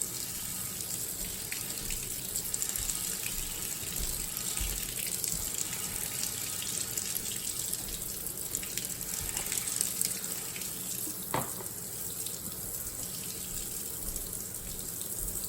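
Kitchen sink faucet running steadily, its stream splashing over dishwasher filter screens as the soap is rinsed off them.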